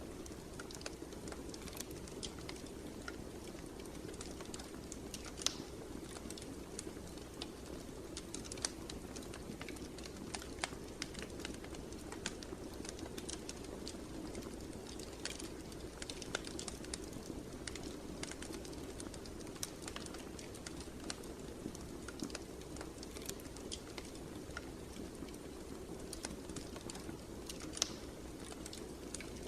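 Wood fire crackling: irregular sharp pops and snaps over a steady low rush of flame, with a few louder pops scattered through.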